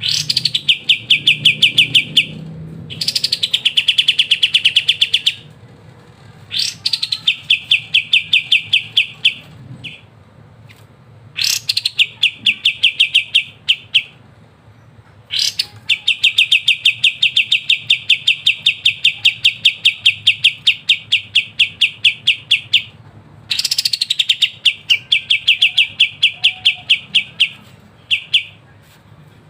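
Kapas tembak bulbul singing a rapid, crisp rattling trill. Each phrase opens with a quick falling whistle and runs into a fast string of evenly repeated notes lasting from about one to seven seconds, with short pauses between phrases.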